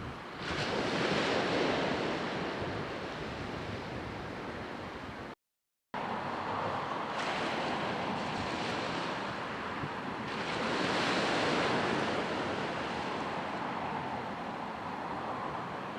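Sea waves washing onto the shore, a steady rush that swells twice as waves break, with wind on the microphone. The sound cuts out completely for about half a second near a third of the way through.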